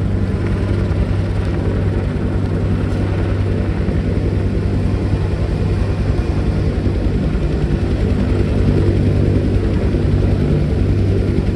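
Military helicopter's turbine engine and main rotor running steadily during its departure, with a strong low hum and a fast, even rotor pulse.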